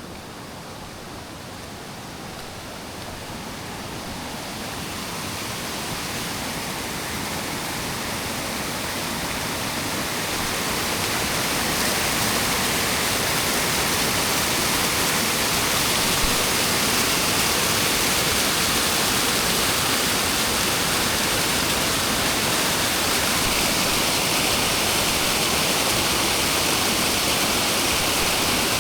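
Rushing water, a steady hiss that grows louder over the first dozen seconds and then holds level.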